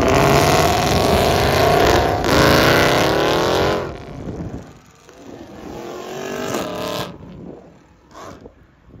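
Dodge Challenger accelerating hard past, its engine revving up, dropping briefly at a gear change about two seconds in, then climbing again and fading away. A second, quieter stretch of engine revving rises from about five and a half seconds and cuts off suddenly near seven seconds.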